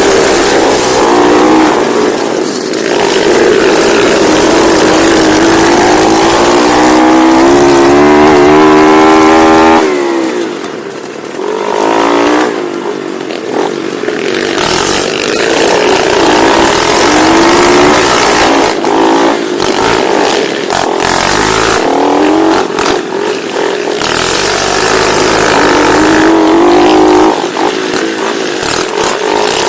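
Pit bike engine heard from on board the bike, revving hard and rising in pitch, then dropping off and winding up again over and over as the rider accelerates and backs off. The longest climb in pitch ends abruptly about ten seconds in, followed by a brief quieter moment.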